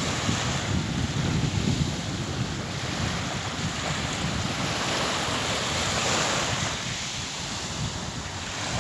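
Calm sea waves washing in, a steady hiss of surf that swells a little midway and eases again near the end, with some wind.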